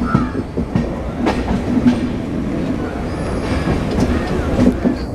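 Steady loud rumble with irregular sharp clicks and knocks throughout, and a brief faint squeal near the start.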